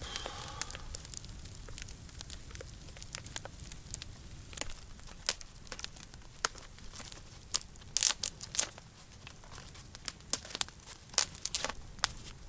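Wood campfire crackling: irregular sharp pops and snaps, with a quick cluster of louder pops about two-thirds of the way through.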